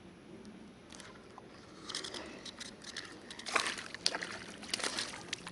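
Irregular splashing and sloshing of water beside a kayak as a small hooked fish is brought in at the surface, starting about two seconds in, with sharp clicks and splashes mixed in.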